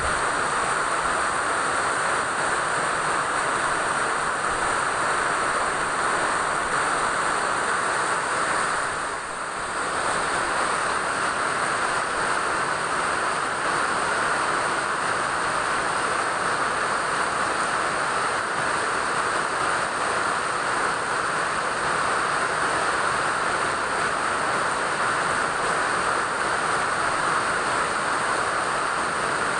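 Steady rain falling, an even hiss that dips briefly about nine seconds in.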